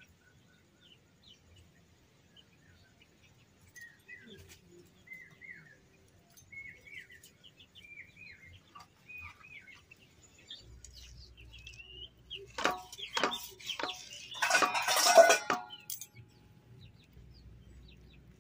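Small birds chirping, a run of short falling calls repeated about once a second. Near the end come a few sharp knocks and then a loud burst of noise lasting about a second.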